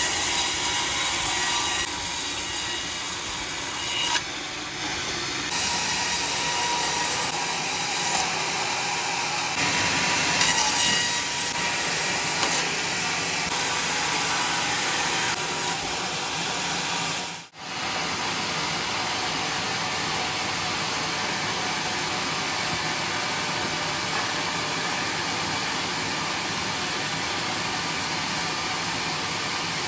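A sawmill saw cutting through a log with a steady, loud whine. It changes abruptly every few seconds, breaks off for a moment about seventeen seconds in, then runs on steadily.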